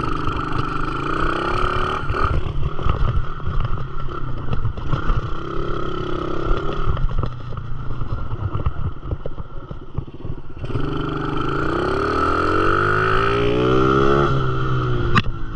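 Dirt bike engine running under way, its pitch climbing as it revs up several times, the longest climb about eleven seconds in, over a rough, clattery rumble.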